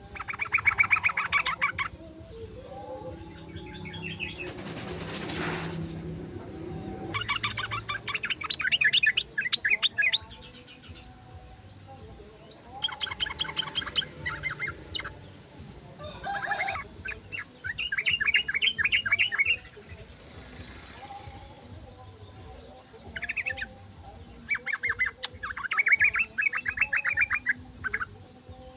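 Yellow-vented bulbul (trucukan) singing in fast chattering trills, bursts of one to three seconds repeated with short pauses. A short rushing noise about five seconds in.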